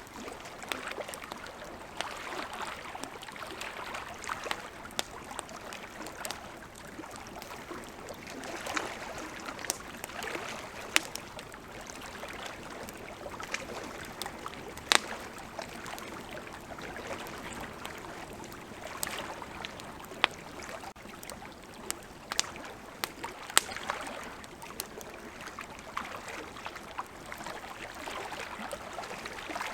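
Wood campfire crackling, with sharp irregular pops and snaps, over the steady rush of flowing river water.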